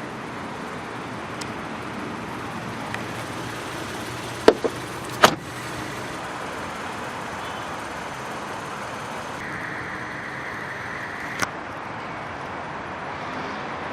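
Steady vehicle or traffic background noise. Two sharp knocks come close together a little over four seconds in, and a brief steady whine about ten seconds in ends in a click.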